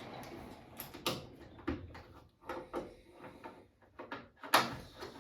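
An irregular run of sharp clicks and knocks, with the loudest knock about four and a half seconds in, over a faint steady background noise.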